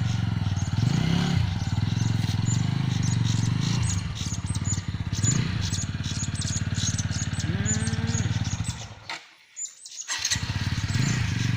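TVS Apache RTR 200's single-cylinder engine running steadily at a standstill, with birds chirping over it at dusk. The sound drops away for about a second near the end.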